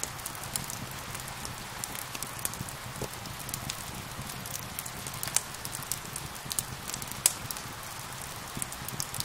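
Steady rain with a wood fire crackling over it in sharp, irregular pops, two louder pops about five and seven seconds in.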